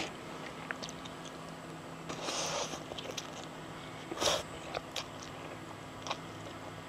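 A person eating: quiet chewing with a few small clicks and two short rustling bursts.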